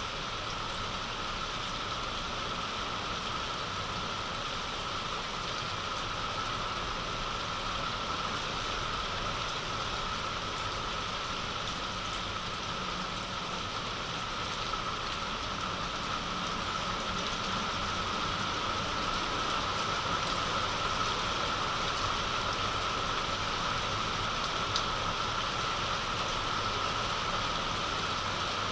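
Heavy rain falling steadily, a dense even hiss of rain on surfaces that grows a little louder in the second half.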